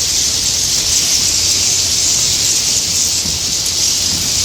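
A dense, steady high-pitched chittering of many swiftlets calling together.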